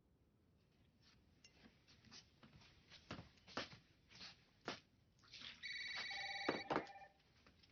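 A telephone ringing once, a single ring of a little over a second made of several steady tones, about three-quarters of the way through. Before it come scattered soft clicks and knocks.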